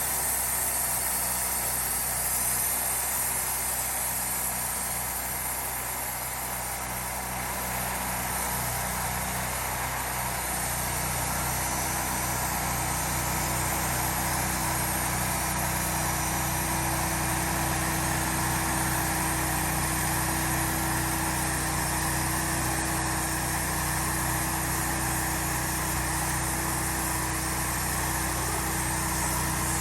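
Sawmill engine running steadily, its tone shifting about a third of the way in.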